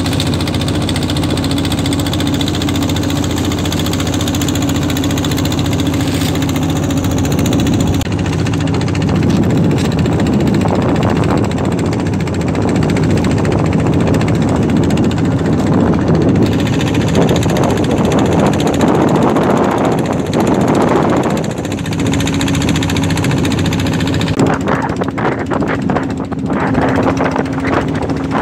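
Motorboat engine running steadily under way, with a louder rushing noise swelling over it through the middle.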